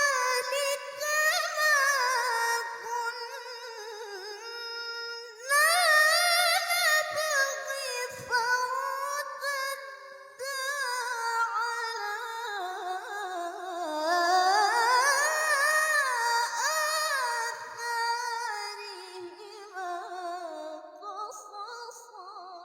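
A woman reciting the Qur'an in melodic tilawah style, drawing out long ornamented vowels with sweeping pitch glides. There are short breaks about five and ten seconds in, and the voice trails off near the end.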